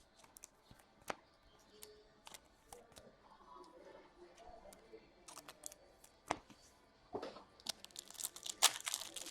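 Trading cards being handled, with a few light clicks and taps, then from about eight seconds in a card pack's wrapper being torn open, crackling and crinkling loudly.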